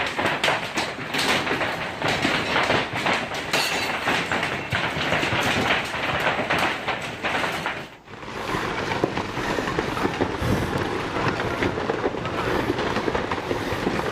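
Heavy hail pelting down in a dense, rapid clatter of impacts. It breaks off briefly about eight seconds in, then goes on slightly less dense.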